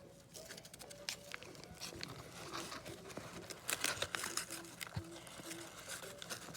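Cardboard and packing tape being handled: irregular crinkling and rustling with short tearing crackles, busier from about two seconds in.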